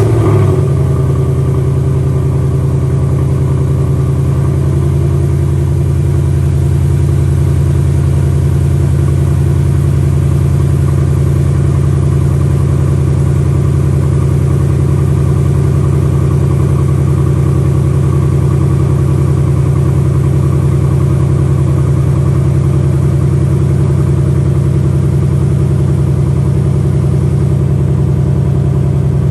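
2018 Ford Mustang GT's 5.0 L V8 idling steadily just after being started, the start-up flare settling within about the first second.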